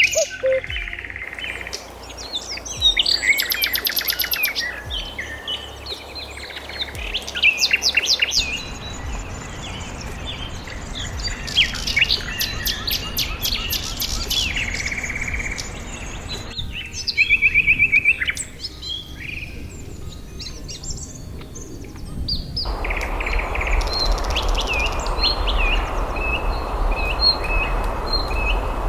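Birds chirping and calling, with many short whistled notes and rapid trills, over a steady background hiss. The background changes abruptly several times, as if separate recordings are spliced together.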